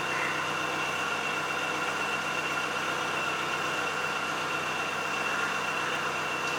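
Steady machine hum with a constant high whine over a hiss, unchanging throughout.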